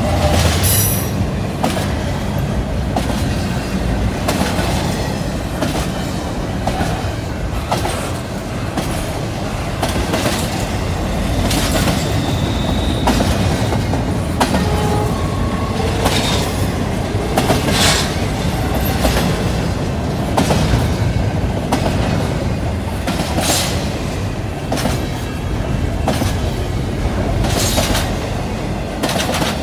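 Double-stack intermodal freight train's well cars rolling past on straight track: a steady rumble of steel wheels on rail, broken by irregular sharp clicks and bangs and a few short squeals from the wheels.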